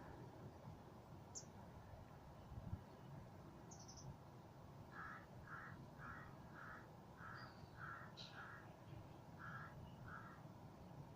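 A bird calling faintly: a run of about nine short, evenly spaced calls, a little under two a second, starting about five seconds in, with a few brief high chirps from smaller birds.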